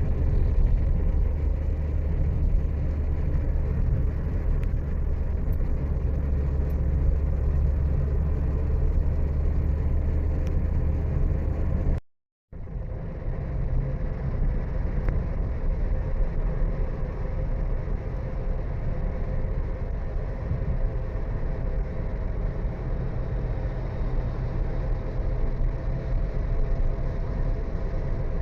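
Steady rumble of a road vehicle on the move, engine and road noise together. It is broken by a sudden half-second dropout to silence about twelve seconds in, then carries on.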